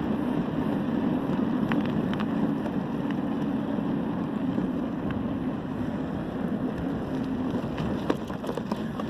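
Steady wind rush and road noise on the microphone while riding a bicycle, with a few light clicks about two seconds in and again near the end.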